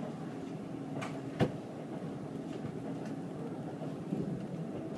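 Steady running rumble of a passenger train heard from inside the car, with a sharp knock about one and a half seconds in and a few fainter clicks after it.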